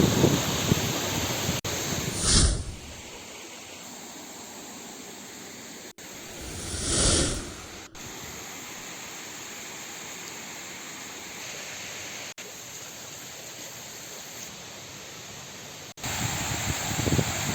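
Waterfall's rushing water, a steady hiss that is louder at first and changes abruptly a few times, with two brief louder swells about two and seven seconds in.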